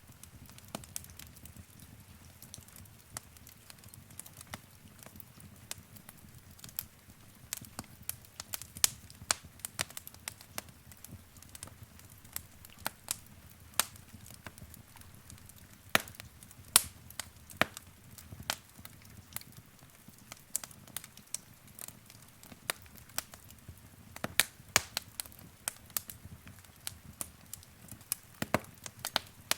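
Wood fire in a fireplace crackling, with frequent irregular sharp pops over a faint steady low rumble of the flames.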